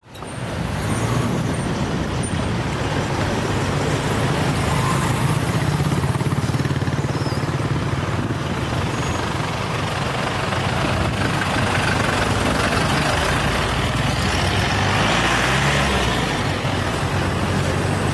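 Steady road traffic noise: a continuous low engine rumble with an even hiss over it.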